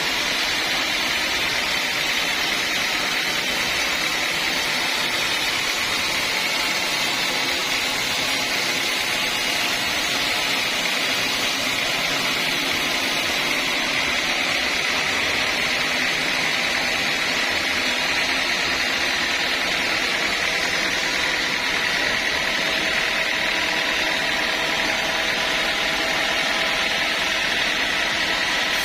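Sawmill saw running steadily, a continuous machine noise with a high whine that holds the same pitch throughout.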